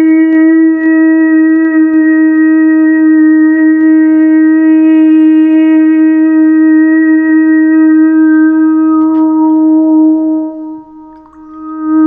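A wind instrument holding one long, steady, loud note. It breaks off briefly near the end and then sounds the same note again.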